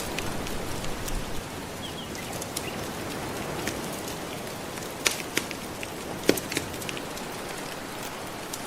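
Wood fire crackling, with scattered sharp snaps and a few louder pops past the middle, over the steady wash of gentle ocean waves.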